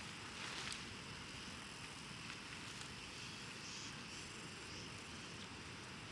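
Faint, steady outdoor background noise at the beach: an even hiss over a low rumble, with a few faint ticks.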